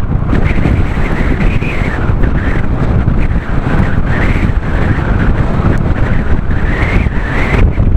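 Strong wind blasting across the microphone of a moving bicycle, a loud, continuous rumble that surges and eases with the gusts.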